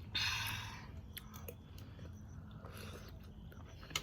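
Someone eating close to the microphone: quiet chewing with small scattered clicks, after a short rustling noise at the start.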